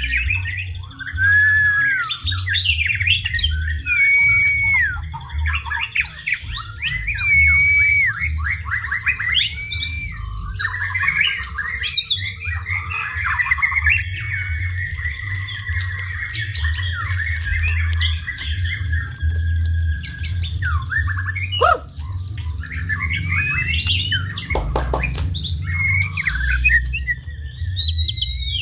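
White-rumped shama singing a long, varied song of clear whistles, rapid chattering trills and harsh notes, over a steady low hum.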